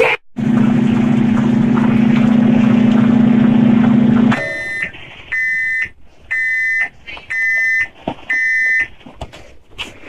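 Microwave oven running with a steady electrical hum that stops about four seconds in, followed by a series of high beeps about a second apart signalling the end of the cooking cycle.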